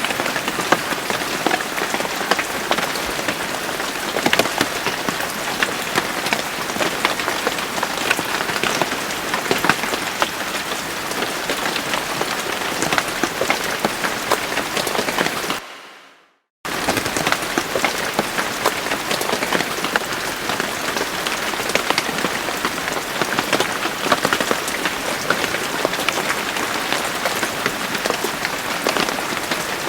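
Steady rain falling, a dense even hiss full of individual drop hits. A little past halfway the sound cuts out completely for about a second, then resumes just as before.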